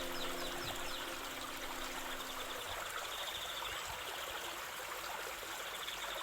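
Steady flowing stream water, a continuous babble, with the last held notes of soft music dying away in the first couple of seconds.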